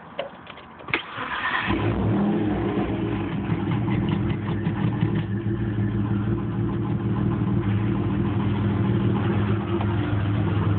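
1992 Dodge Stealth R/T Twin Turbo's twin-turbo V6 starting: a brief noisy start with a click about a second in, then the engine catches and runs steadily, making a sound the owner calls weird.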